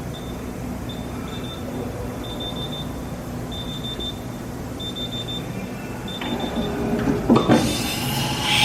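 Haas CNC control panel beeping in short runs of quick, high beeps, the keypad sounding as keys are pressed, over a low steady machine hum. Near the end comes a brief rising whine.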